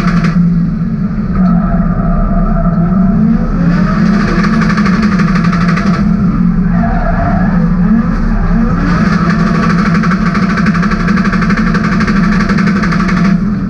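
BMW E30's M50 B28 inline-six engine running hard, heard from inside the stripped, roll-caged cabin, its revs rising and falling. A higher hiss comes in twice for a few seconds at a time.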